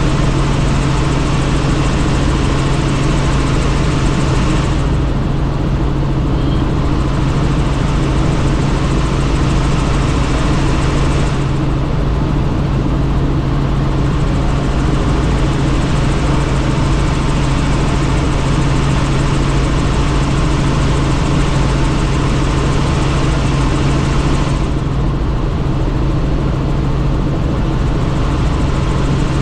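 Helicopter in flight heard from on board, with no doors: a steady low engine and rotor hum under constant rushing noise. The higher hiss eases off briefly three times.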